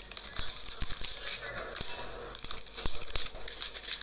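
KitKat Duos candy bar wrapper crinkling and crackling as it is torn open and handled, in a run of quick irregular clicks.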